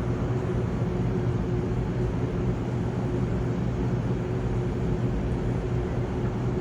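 A steady low mechanical drone with a constant hum and a thin steady tone, unchanging throughout.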